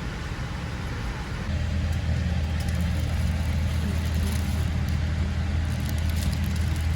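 Steady low rumble of cabin noise inside a Boeing 787-8 airliner, stepping up in loudness about a second and a half in.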